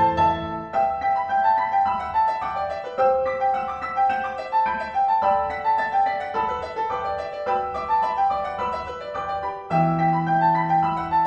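Piano music: a melody of short notes over low held chords, with a new low chord struck about ten seconds in.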